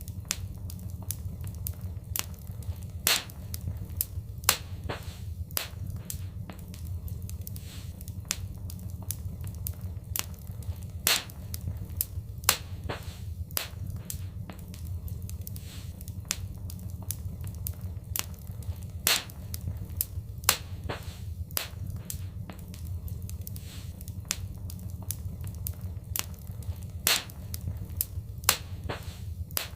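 Fireplace fire crackling, with many small irregular pops over a steady low rumble of the flames. A pair of louder pops comes back about every eight seconds.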